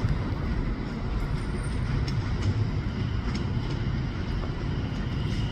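Steady low rumble of a train, with a few faint clicks.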